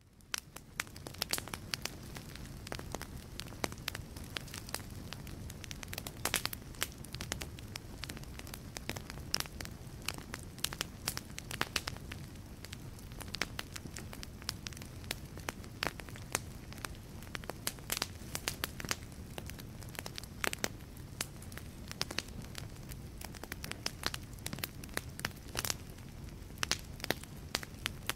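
Wood fire burning in a fireplace: irregular sharp crackles and pops from the burning logs over a low, steady rush of the flames, fading in over the first second.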